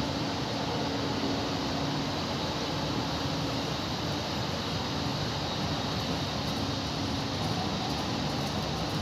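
Steady rumble and hum of a train at a railway station, with faint low steady tones and no sudden events.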